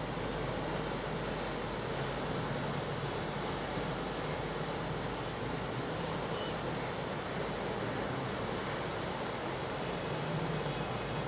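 Steady rush of fast-flowing floodwater in a river in spate.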